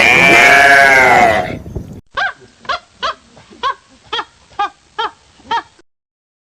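A large animal's loud roar fades out over the first two seconds. Then a goat bleats about eight times in short calls that rise and fall in pitch, about two a second.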